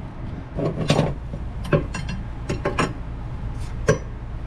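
Metal parts and tools being handled while working on the truck's front suspension: a series of sharp, separate clinks and knocks, over a steady low hum.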